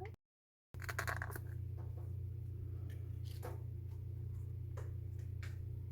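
Glue and water being poured from small plastic condiment cups into a bowl. After a half-second dropout, there is a short pouring sound about a second in, then a few scattered light clicks and taps of cup against bowl, over a steady low hum.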